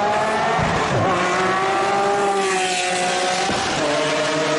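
Performance car engine at full throttle in a race, its pitch climbing slowly and then levelling off, with a short dip about a second in and a drop in pitch about three and a half seconds in, as at a gear change.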